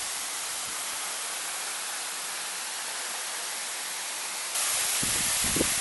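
Steady rush of Waimoku Falls, a large waterfall, heard as an even hiss of falling water. It gets louder about four and a half seconds in, and a low rumble joins near the end.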